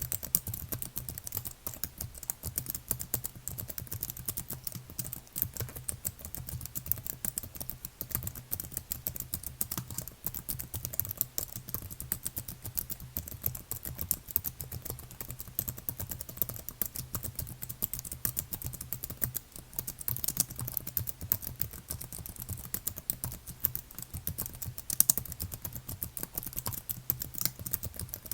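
Continuous fast typing on a computer keyboard, a dense run of key clicks with no pauses.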